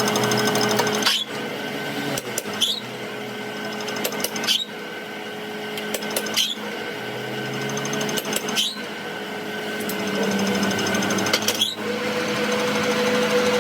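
A workshop machine running with a steady hum, with a sharp knock about every two seconds.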